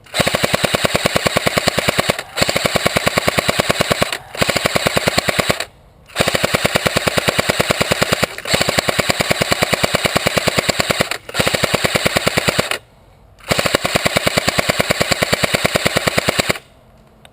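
Airsoft gun firing on full auto close by, a rapid, even stream of shots in seven long bursts of one to three seconds each, with brief pauses between them.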